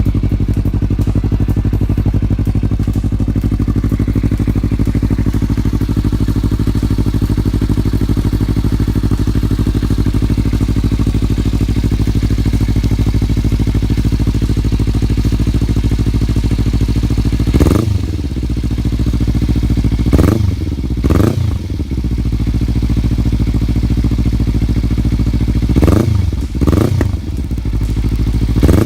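Kawasaki Ninja 300's parallel-twin engine breathing through a Two Brothers Black Series slip-on exhaust. It idles steadily, then from a bit past halfway takes about six quick throttle blips, each rising in pitch and dropping back to idle.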